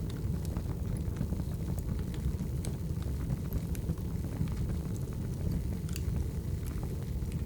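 Wood fire burning: a steady low rumble with scattered sharp crackles and pops from the logs.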